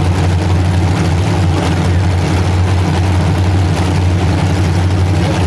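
Engines of several full-size demolition derby cars running together in a steady, loud low drone.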